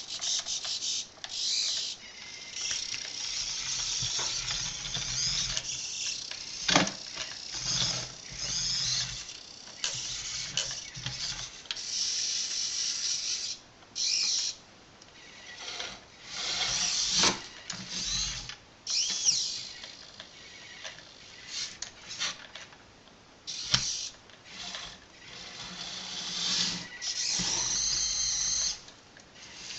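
Electric drive motor and gearing of a SikuControl32 remote-control model Fendt tractor whirring in stop-start bursts, with a thin whine that rises and falls in pitch as it speeds up and slows down.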